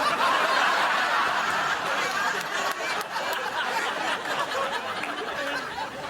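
Studio audience laughing, breaking out at once after a punchline and slowly dying away.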